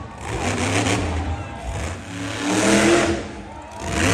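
Monster truck engine revving, rising and falling in surges, the loudest about two and a half to three seconds in.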